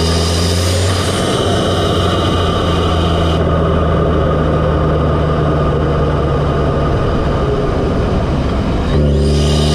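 Audi S3's turbocharged 2.0-litre four-cylinder running, heard up close at its APR open cone-filter intake, with induction hiss over the engine note. About nine seconds in it briefly gets louder with a stronger engine tone and more intake hiss, like a light blip of the throttle.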